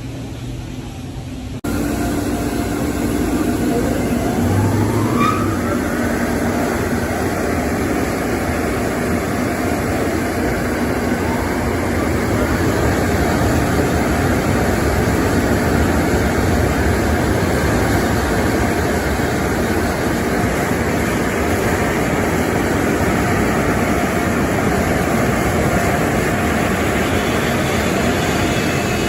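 Car wash tunnel machinery switching on about two seconds in with a sudden loud, steady rush, and a faint rising whine over the next few seconds as it spins up.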